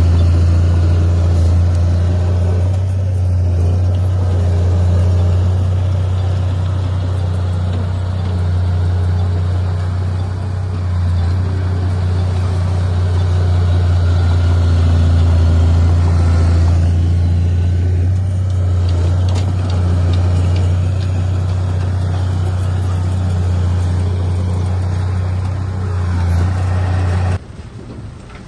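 Heavy diesel engine of an earthmoving machine running steadily under load, a deep, constant drone. It cuts off abruptly near the end, leaving quieter machinery noise.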